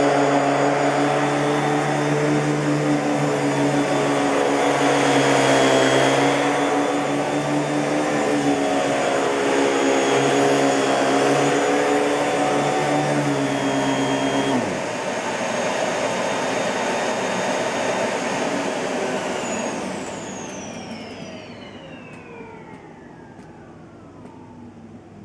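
Miele Blue Moon S658 canister vacuum cleaner running steadily with a whining hum. About two-thirds of the way through a lower hum cuts out suddenly, and near the end the motor is switched off and winds down, its whine falling in pitch as it fades.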